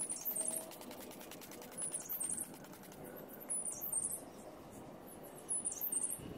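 Small birds chirping: short clusters of high-pitched chirps about every two seconds, over faint background noise.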